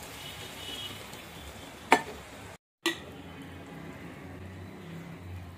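Fish head and tomato curry sizzling in a wok while a spatula stirs it, with one sharp clink of the utensil against the pan about two seconds in. The sound cuts out for a moment shortly after and comes back with another click.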